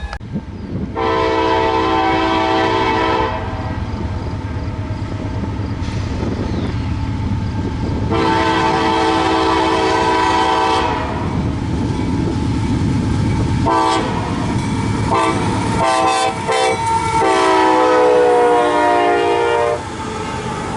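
Diesel locomotive's multi-chime air horn sounding two long blasts, then a few short broken blasts and a final long blast, over the steady rumble of a passing train.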